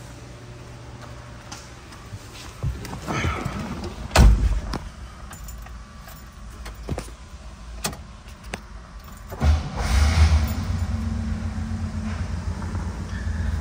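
Keys and a heavy thump, like a car door shutting, about four seconds in, then the 1964 Pontiac's engine starts about nine and a half seconds in and keeps running with a steady low rumble.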